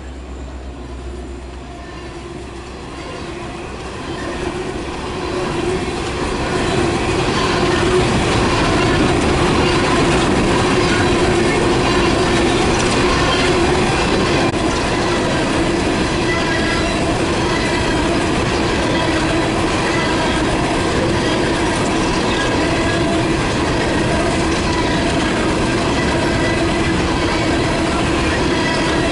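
A train rolling past at close range, its wheels running over the rails with some wheel squeal and clicking of rail joints. It grows louder over the first several seconds, then stays steady and loud.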